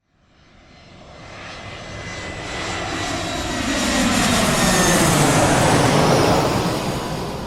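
Fixed-wing airplane flying past. Its engine noise swells from nothing to a peak about five to six seconds in, then starts to fade, with a sweeping fall in pitch as it passes.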